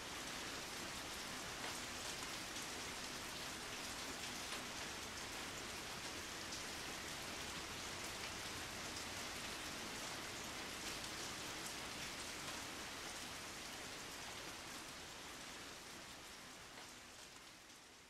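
Steady rain, an even hiss of falling rain with faint patter of drops, fading out over the last few seconds.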